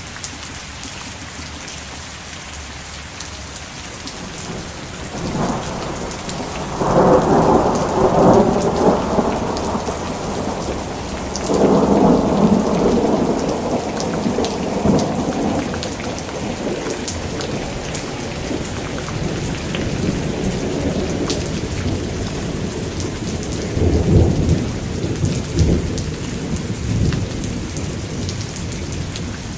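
Steady rain with three rolls of thunder over it. Each roll swells over a second or two and dies away slowly; the first, about a fifth of the way in, and the second, near the middle, are the loudest, and a shorter roll comes near the end.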